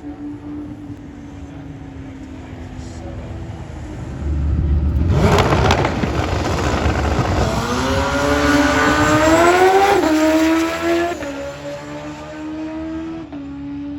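Drag-racing motorcycle engine at full throttle: a loud rush begins about four seconds in, then the engine note climbs steadily in pitch for a few seconds before cutting off about ten seconds in. A steady idling engine note runs underneath before and after.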